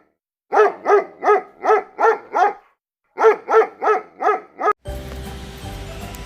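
A dog barking in a quick run of short, pitched barks: six in a row, a brief pause, then five more, with silence between them. A steady low background sound comes in near the end.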